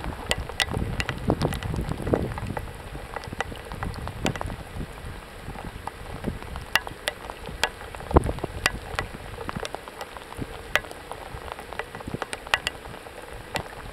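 Rain falling, with many individual drops ticking sharply and irregularly on a nearby surface over a steady hiss.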